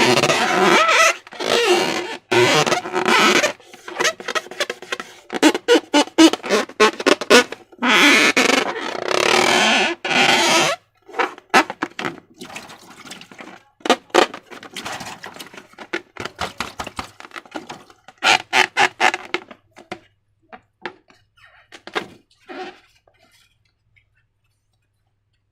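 Slime being squished and worked by hand: dense, sticky squelching and clicking for about ten seconds, then sparser clicks that fade out and stop about three-quarters of the way through.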